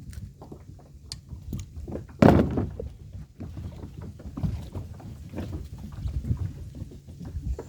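Wind-driven chop slapping against a kayak's hull, with wind buffeting the microphone and frequent small knocks. One loud thump a little over two seconds in.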